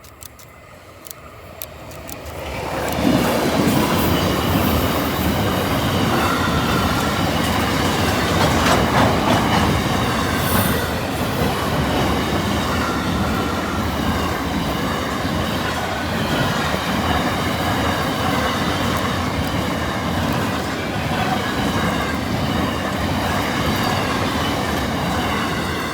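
Freight train passing close by, hauled by diesel locomotive Q4008 with a rake of empty sulphur wagons: the rumble builds about two and a half seconds in, then runs steady and loud with wheels clacking and rattling over the track.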